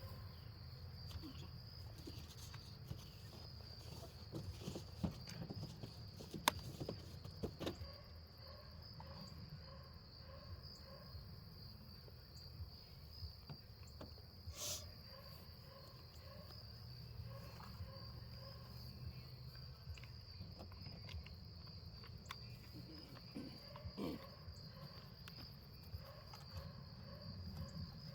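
Insects chirring in a steady high drone, with scattered light clicks and knocks from chainsaw parts being handled.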